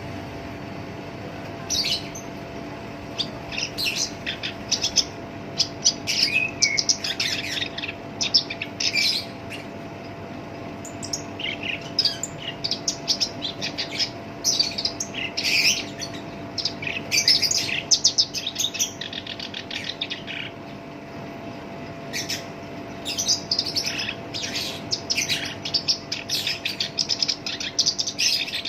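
Black-browed reed warbler (Acrocephalus bistrigiceps) singing its harsh song in runs of quick, scratchy notes, broken by short pauses about ten and twenty seconds in. A faint steady hum runs underneath.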